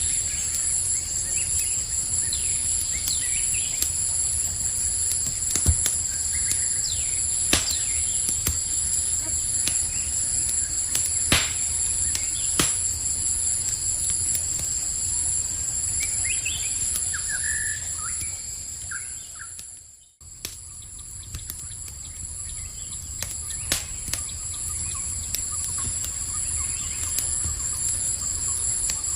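Campfire crackling with a few sharp pops over a steady chorus of crickets. A few short bird chirps come in about two-thirds through, and the whole soundscape briefly dips almost to silence before resuming.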